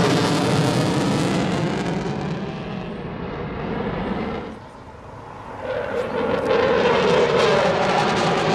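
Eurofighter Typhoon's twin jet engines, loud as it flies past. The sound dies down for about a second halfway through, then swells back up loud again.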